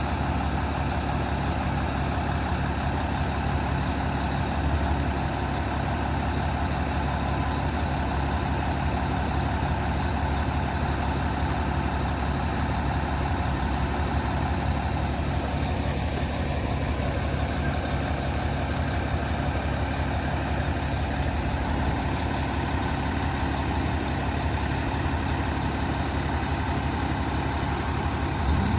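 Cummins 8.9 diesel engine of a Kenworth T370 truck idling steadily.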